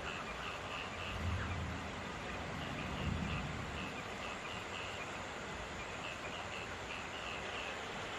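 Steady rainfall with frogs calling in short repeated croaks in clusters. Two low rumbles, about one and three seconds in.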